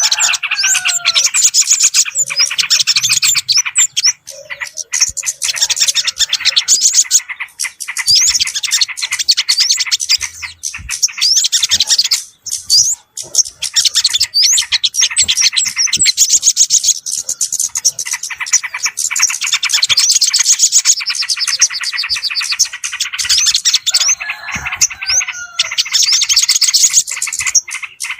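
Bird-lure recording of small songbirds calling together: a dense, unbroken chatter of rapid high chirps and twitters, with a few lower, slurred notes now and then, played to draw small birds in.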